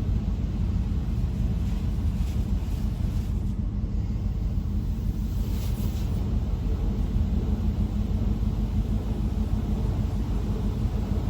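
Steady low rumble heard from inside a truck cab going through an automatic in-bay car wash, with a faint hiss of spray passing over the body a couple of times, about two and about six seconds in.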